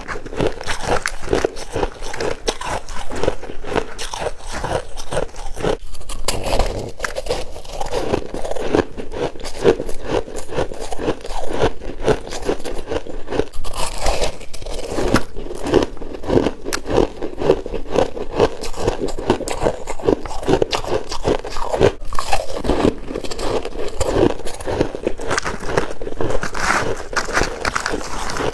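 Close-up crunching and chewing of freezer frost: many rapid, irregular crackles as mouthfuls of frost are bitten and chewed.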